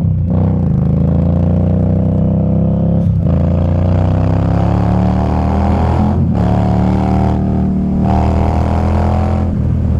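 Indian Scout Bobber's V-twin engine pulling hard under acceleration, its note climbing in pitch and dropping at each upshift about every three seconds.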